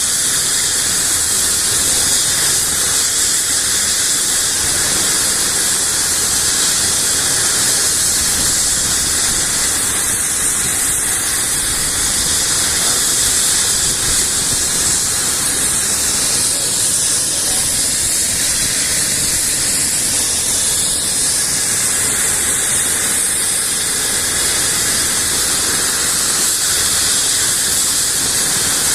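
Helicopter turbine engine running, a loud steady high-pitched hiss with no break.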